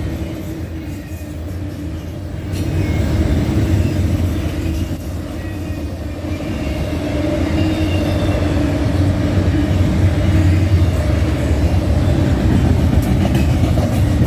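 Eastbound CN intermodal freight train's cars rolling past on the rails, a loud steady rumble.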